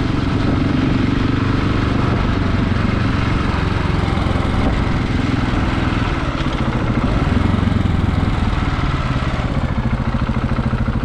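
KTM 690's single-cylinder engine running under way as the motorcycle is ridden. Near the end its firing pulses become slower and more distinct as the revs drop.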